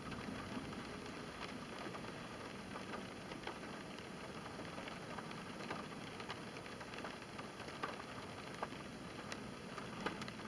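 Light rain falling steadily, with scattered drops ticking.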